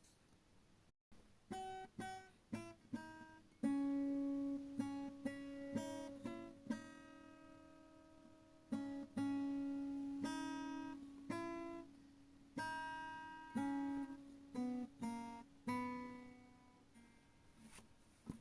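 Background music: a solo acoustic guitar playing a slow melody of plucked notes, some ringing on for a second or two.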